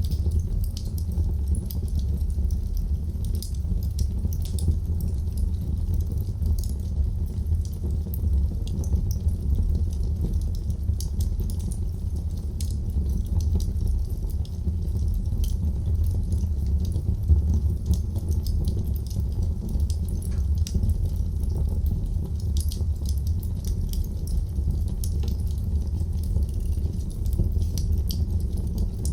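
Wood fire crackling in a fireplace: frequent small crackles and pops over a steady low rumble.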